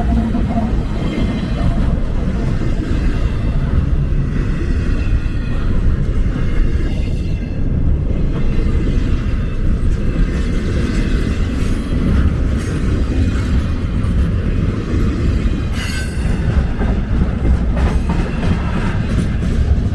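Intermodal container train rolling past at close range: a steady, loud rumble of wheels and cars on the rails, with a few sharp clicks, the clearest about sixteen seconds in.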